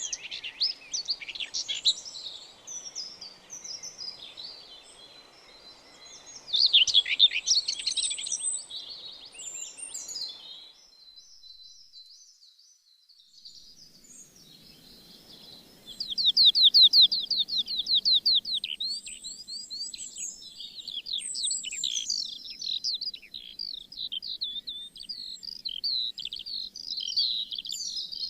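Songbirds chirping and singing, with quick runs of repeated trilled notes. The birdsong thins to almost nothing for a few seconds midway, then comes back strongly.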